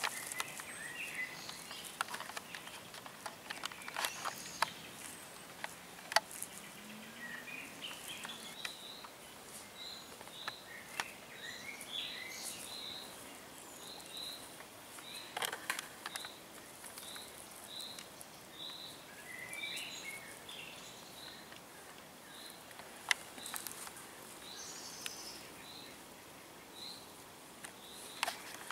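Woodland birdsong: one bird repeats a short, high note about twice a second through the middle stretch, while other birds twitter now and then. Faint scattered clicks are heard over a quiet outdoor background.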